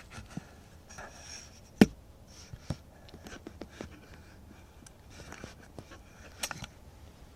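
Faint, scattered clicks and light scraping, with one sharper click about two seconds in.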